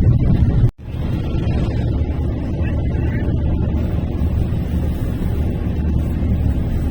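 Steady low rumble of a car driving on the highway, heard from inside the cabin. The sound drops out for a split second under a second in.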